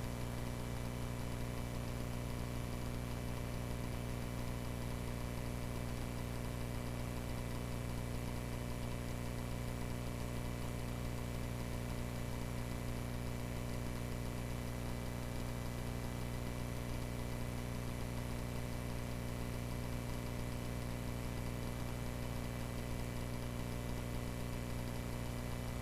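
Cessna 140A's single piston engine and propeller running at a steady speed: a constant, even drone.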